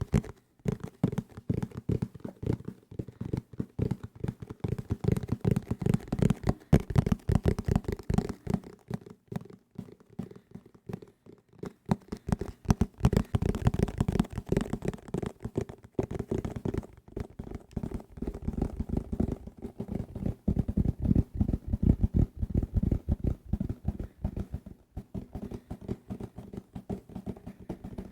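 Fast tapping on assorted desk objects: a dense run of quick taps, with a few short pauses.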